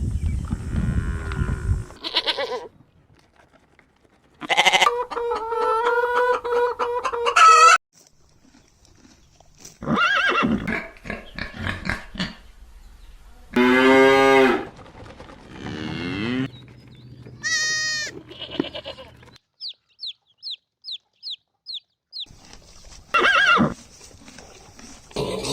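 A string of separate farm animal calls edited one after another: a long call of about three seconds, several bleat-like calls, a high falling cry, and a run of six quick, high chirps near the end.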